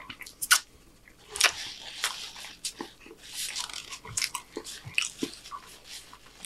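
Close-miked chewing of a bite of burrito: a run of wet mouth clicks and smacks, with two stretches of crackly crinkling, about one and a half and three and a half seconds in, from the crumpled paper wrapper in his other hand.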